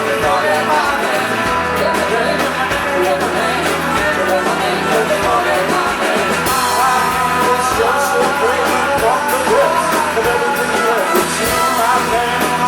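Live rock band playing a song, with singing over amplified instruments and regular drum hits.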